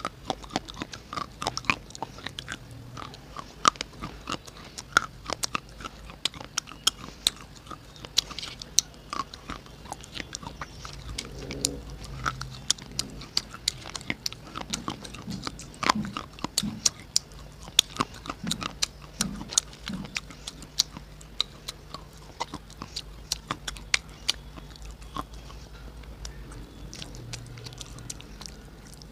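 Close-miked crunching and chewing of white Chandtara slate pencils: a dense run of sharp, crisp crackles as the sticks are bitten and ground between the teeth.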